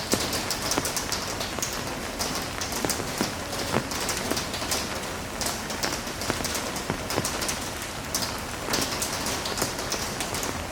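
Heavy rain falling steadily, with many close, sharp drop impacts spattering through the constant hiss.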